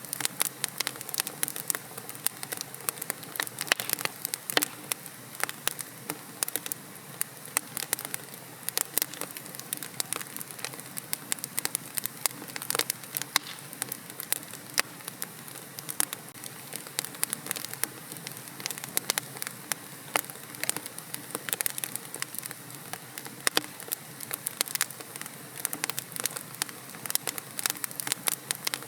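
Wood logs burning in a fireplace, crackling and popping in dense, irregular clicks over a steady soft hiss.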